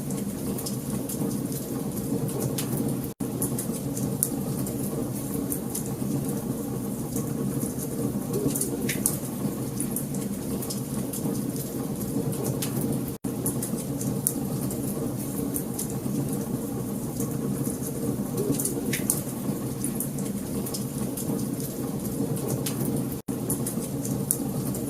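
Wood fire crackling, with a steady low rustle under frequent sharp pops and snaps. The sound cuts out for an instant three times, about ten seconds apart.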